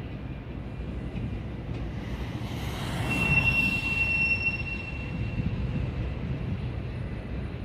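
Intermodal freight train rolling past with a steady low rumble. About three seconds in, a high-pitched wheel squeal sets in and holds for about two seconds.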